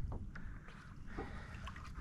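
Water and wind noise around a kayak at sea, with a low steady rumble and a few faint small clicks.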